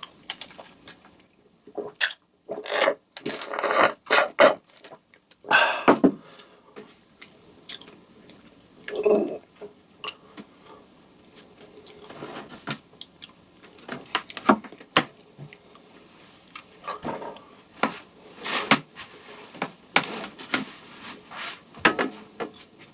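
Close-miked eating sounds: a person chewing a soft cream-filled donut, in irregular wet bursts, densest in the first six seconds and sparser after.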